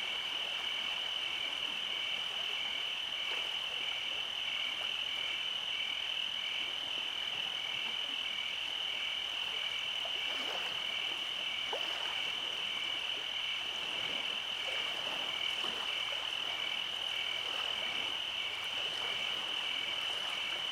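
Night chorus of calling frogs and insects: a steady high trill with a second call pulsing about twice a second beneath it, running evenly without a break.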